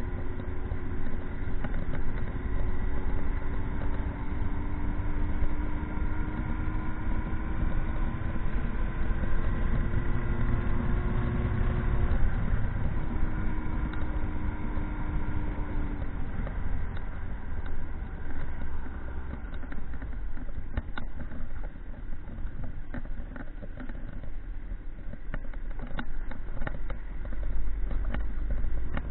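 Motorcycle engine running under way with low wind rumble; its pitch climbs slowly, drops about twelve seconds in, then fades into wind and road noise with scattered clicks through the second half.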